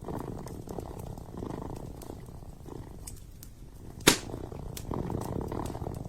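Kitten purring in slow waves, with a wood fire crackling in small ticks and one loud sharp pop about four seconds in.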